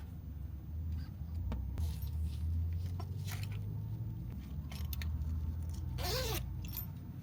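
Scattered small rustles and clicks, with a brief squeak about six seconds in, over a low steady rumble.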